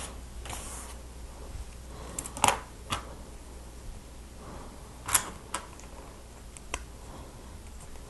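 Plastic Lego Technic parts clicking as they are handled and pressed together, about half a dozen sharp separate clicks, the loudest about two and a half and five seconds in.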